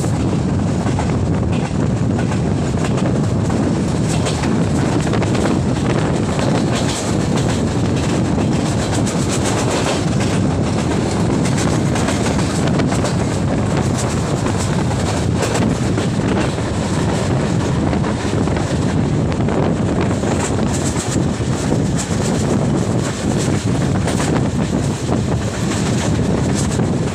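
Diesel-hauled passenger train running at speed, with a steady loud rumble and wheels clattering over the rail joints.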